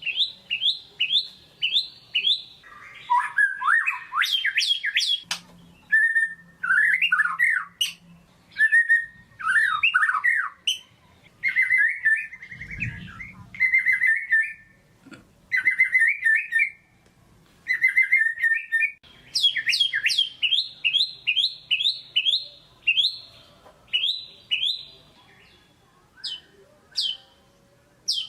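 White-rumped shama singing a long, varied song. It opens with a fast run of repeated falling notes, about three a second. It then moves into whistled and chattering phrases, returns to another fast run of falling notes, and thins to a few spaced notes near the end.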